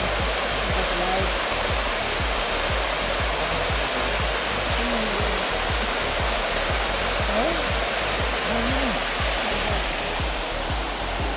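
Steady rushing of a waterfall, an even wash of falling water, with a run of short low thumps underneath.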